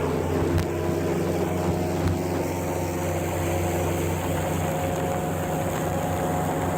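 Airboat engine and propeller running steadily.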